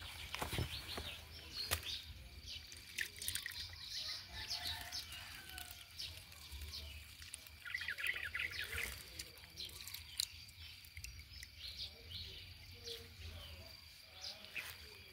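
Birds chirping with many short calls, thickest about eight seconds in, over two faint steady high tones. Scattered rustles and crunches of dry grass and leaves underfoot.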